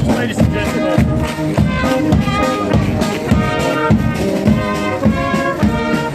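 Marching brass band playing a tune, trumpets and trombones over a steady drum beat.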